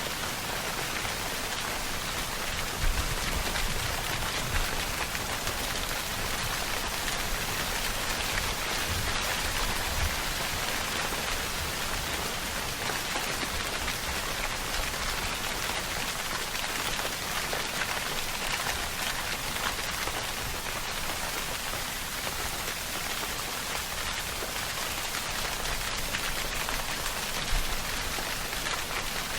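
Steady rainfall, a dense even patter of drops. Two brief louder low thuds stand out, about three seconds in and near the end.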